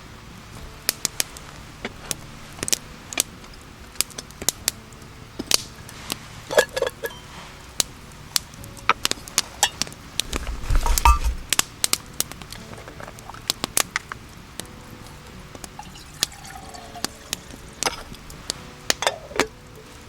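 Campfire cooking crackling with irregular sharp pops throughout, and a louder, deeper clatter about ten to eleven seconds in.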